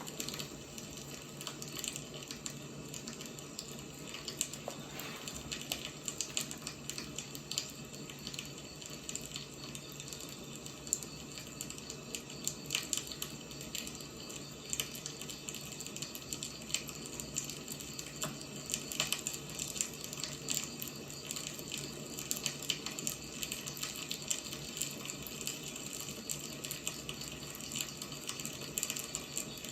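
Firewood burning, a steady soft hiss with irregular sharp crackles and pops.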